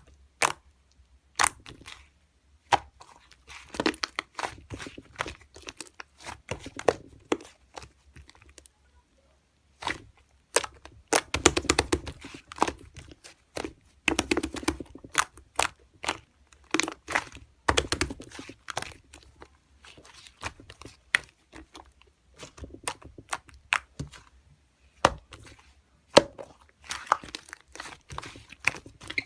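Hands squishing and stretching slime, with irregular sharp pops and clicks as trapped air bursts, thickening into dense crackling runs in places.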